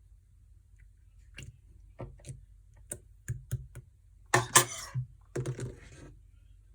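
Translucent slime being pressed and worked by hand, giving a run of separate sticky clicks and pops that give way to two longer crackling squelches.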